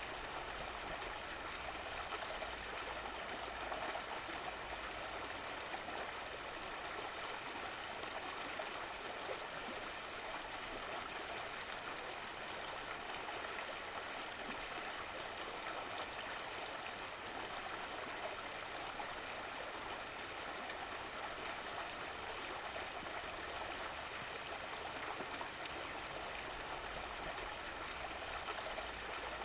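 Running water of a stream, flowing and trickling steadily.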